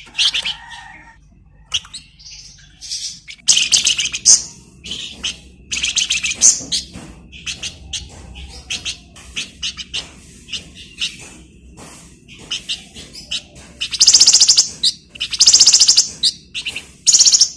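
Flamboyan (minivet) singing: a run of sharp high chirps and twitters, broken by dense rapid rattling trills, the two loudest and longest near the end.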